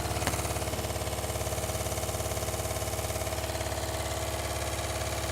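Chinese mini lathe running under automatic feed: a steady motor and gear hum with a fast pulsing beat and a steady whine, and one short click just after the start.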